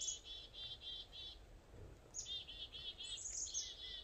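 A songbird singing two phrases. Each is a high note followed by a run of quick repeated chirps, about four a second.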